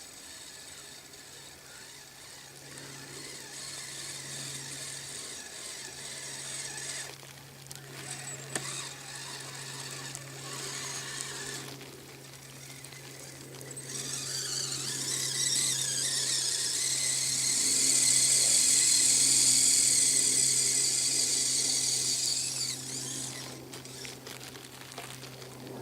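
Electric motor and gear drive of a Kyosho Blizzard SR radio-controlled snowcat whining as it drives on its tracks, with a steady low hum underneath. The whine swells and grows louder for several seconds past the middle, then drops back.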